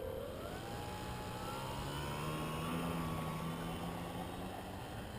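Brushless electric motor and 13x7 wooden propeller of a radio-controlled Dynam Waco biplane spooling up as the throttle is opened for takeoff. The whine rises in pitch over the first second and a half, then holds steady.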